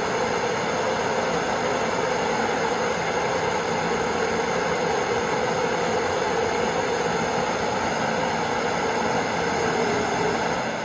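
Gas torch flame burning with a steady hiss, with no hammer strikes.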